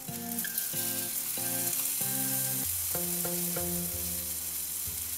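Tomato wedges sizzling as they go into a hot nonstick frying pan, a steady frying hiss.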